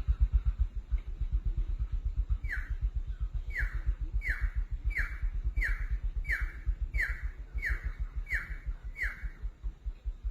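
A bird giving a run of about ten short calls, each sliding down in pitch, one every two-thirds of a second or so, over a low, rapid, steady throbbing.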